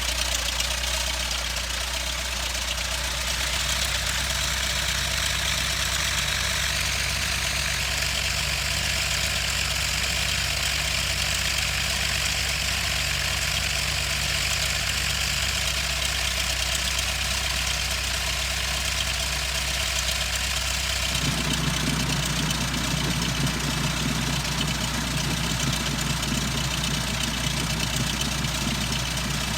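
Cessna 152's four-cylinder piston engine running steadily at low, idle-like power. About two-thirds of the way through, a lower tone joins the sound.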